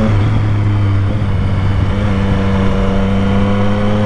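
Triumph Street Triple 765's inline three-cylinder engine running while riding. Its note loosens briefly in the first second, then holds steady.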